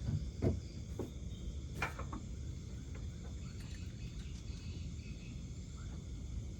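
Night insects, crickets among them, chirring steadily over a low rumble, with a few short knocks about half a second, one second and just under two seconds in.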